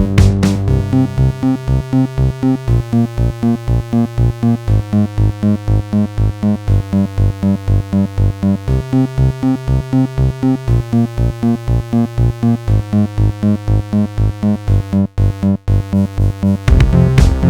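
Electronic music: a synthesizer pattern pulsing about four times a second over a low bass. Near the end it drops out briefly, then a fuller, louder section comes in.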